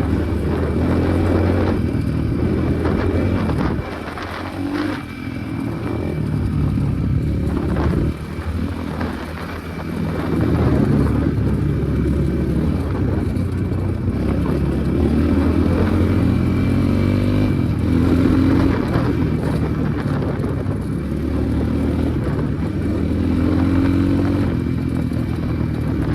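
Enduro motorcycle engine running under way, its revs rising and falling again and again, with brief dips in level about four and eight seconds in.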